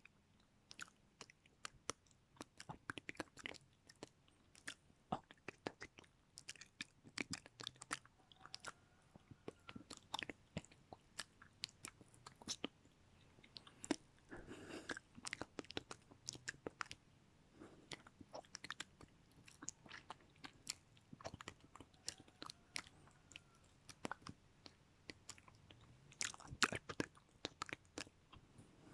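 Close-miked ASMR mouth sounds: quiet, irregular wet clicks and smacks of tongue and lips, with a soft breathy passage about halfway through.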